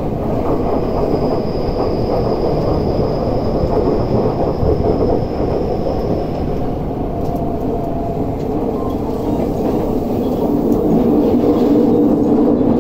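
Tokyu 5050 series commuter train heard from inside the passenger car while running at speed: a steady rumble of wheels and running gear. A faint high whine sits over it for the first half, and the noise grows a little louder near the end.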